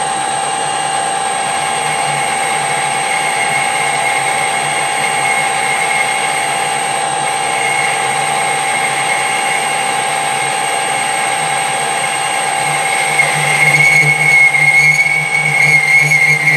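Metal lathe running through a light facing cut on a steel workpiece, with a steady whine from its gearing and motor. About three-quarters of the way through, the cut grows louder with a high, wavering whine from the tool on the metal.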